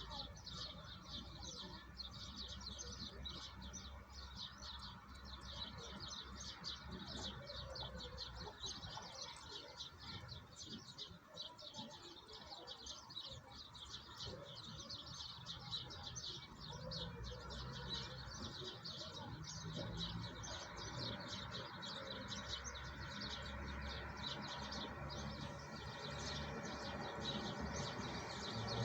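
A chorus of small birds chirping rapidly and continuously: many short, high chirps overlapping.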